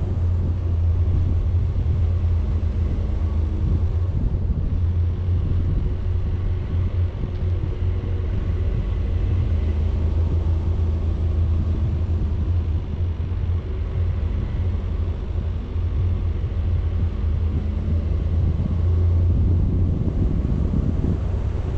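Vehicle driving on a road, a steady low engine and road rumble with no gear changes or breaks, with some wind noise on the microphone.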